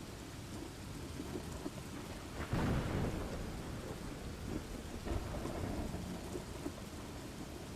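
Thunderstorm ambience: steady rain with rolls of thunder, the loudest swelling about two and a half seconds in and a smaller one about five seconds in.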